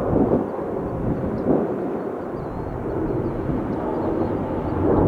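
Airbus A320neo airliner arriving to land, its jet engines giving a steady low rumble.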